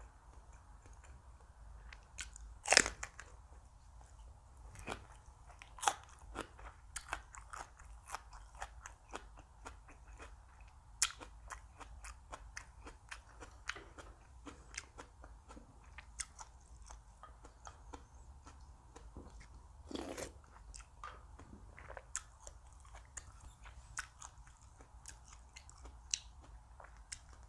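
A person chewing and biting crunchy food close to the microphone, with a steady run of small crisp crunches and wet mouth clicks. One loud sharp crunch or click comes about three seconds in.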